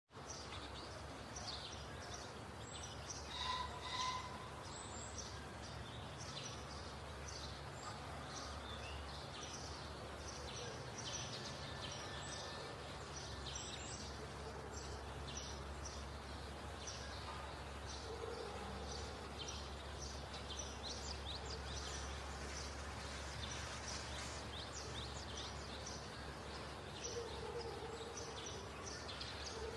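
Outdoor ambience: small birds chirping and singing on and off, over a steady low rumble.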